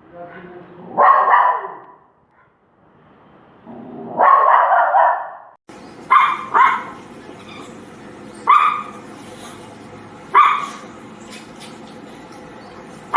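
Dogs barking: two longer, drawn-out barks, then, after a switch to another recording with a steady hiss behind it, sharp single barks spaced about two seconds apart.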